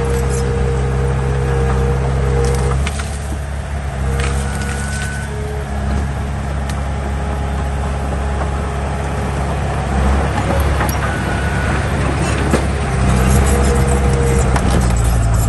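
Heavy diesel engine of earthmoving machinery working under load. Its note drops a little about three seconds in and rises again near the end, with scattered metallic clanks and rattles over it.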